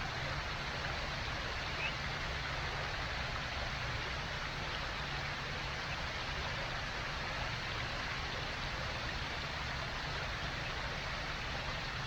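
Steady rushing noise, an even hiss with no distinct events.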